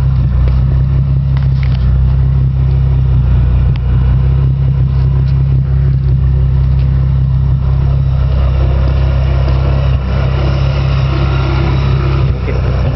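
Car engine running at a steady speed, a loud, even low drone with no revving.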